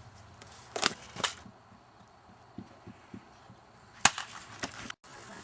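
Sharp snapping shots from an airsoft gun: two in quick succession about a second in, then one more about four seconds in, with a few faint soft thumps between them.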